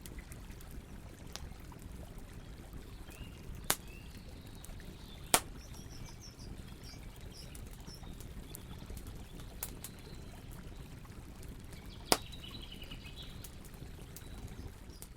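Campfire crackling, with three loud sharp pops and a few fainter snaps over a steady low rumble. Small birds chirp faintly, around the middle and again near the end.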